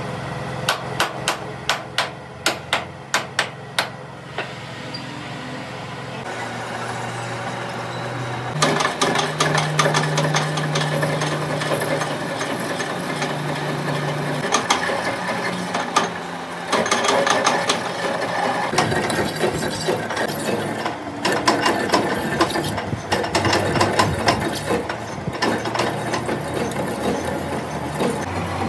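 Hammer blows on metal: about a dozen sharp, evenly spaced strikes, roughly three a second, in the first few seconds. After that comes a long stretch of dense, rapid metallic clatter and noise.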